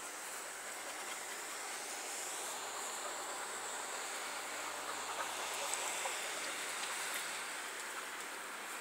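Steady background hiss of outdoor noise, swelling slightly in the middle.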